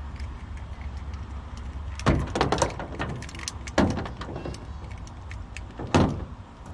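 Several sharp knocks and clatters: one about two seconds in followed by a quick run of them, another just before four seconds, and a last one about six seconds in, over a steady low rumble.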